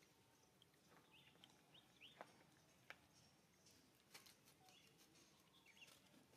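Near silence with faint short high bird chirps scattered throughout and a few light clicks and crackles, such as dry leaves and twigs shifting underfoot.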